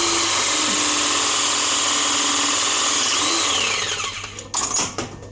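Battery-powered press tool crimping a 50 mm (2-inch) B-press gas fitting: the motor runs steadily for about four seconds, its whine dipping in pitch as the press cycle finishes, then stops, followed by a few sharp clicks and knocks.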